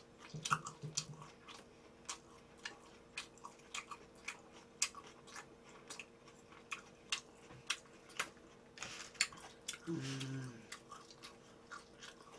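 A person chewing a mouthful of food: a string of irregular short clicking mouth sounds, a few a second. About ten seconds in there is a brief hum from the voice.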